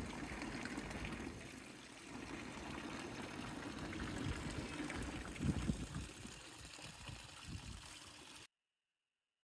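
Running water rushing steadily, with a few low thumps about five and a half seconds in; it cuts off suddenly.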